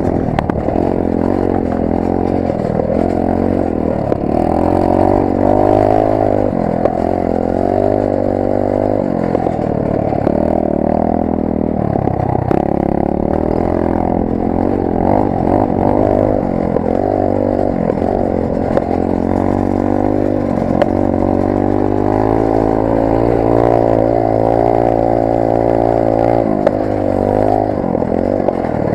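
Rampage 125 cc pit bike's single-cylinder four-stroke engine, recorded onboard while riding, revving up and falling back over and over as the rider accelerates, shifts and backs off.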